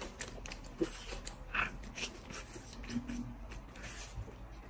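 Faint chewing and biting while eating grilled skewered meat, with a few small clicks and mouth noises scattered through.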